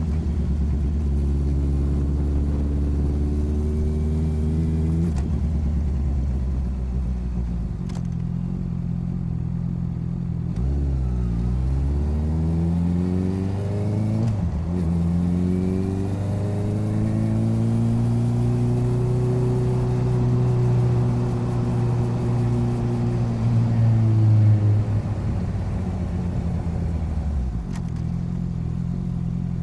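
Motorcycle engine running under way, recorded from the side of the bike, its pitch stepping and sliding with throttle and gear changes: it drops and picks up again around the middle, then climbs to its loudest before falling back near the end.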